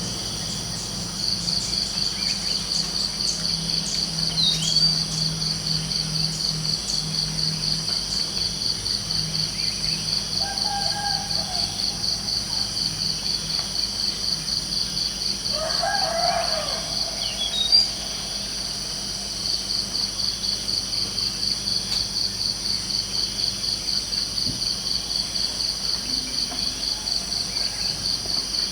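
Crickets chirping in a steady, fast pulsing trill. A short bird call comes about ten seconds in, and a rooster crows once around the middle.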